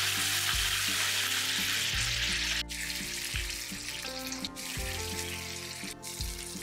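Pork-belly-wrapped tofu pieces sizzling in a frying pan in their soy-sauce-and-mirin glaze. The sizzle is loud for about the first two and a half seconds, then drops abruptly to a softer hiss. Soft background music with held notes plays underneath.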